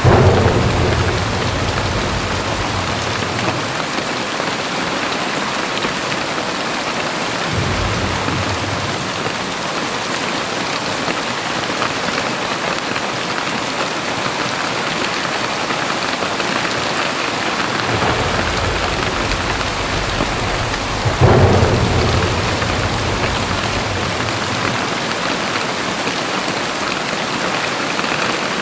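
Very heavy rain pouring steadily, with two sudden low rumbles of thunder, one right at the start and one about 21 seconds in, each fading over a couple of seconds.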